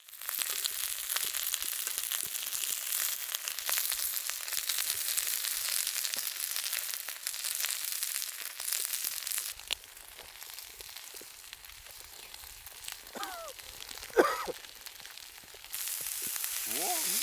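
Mutton sizzling on a jingisukan grill over a campfire, a dense crackling hiss. Partway through, the sizzle drops away for several seconds, with a few brief squeaky pitched sounds and one sharp knock. Then the sizzle comes back.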